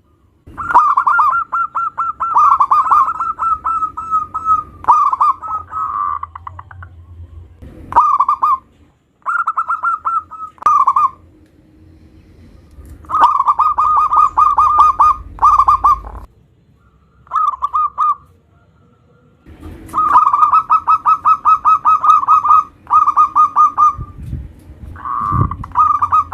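Zebra dove (perkutut) cooing: loud bouts of rapid, rolling pulsed notes held around one pitch, about seven bouts with short pauses between them.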